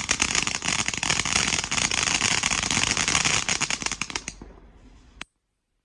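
Backyard firework crackling: a dense, rapid run of small sharp pops that dies away about four seconds in, then cuts off suddenly.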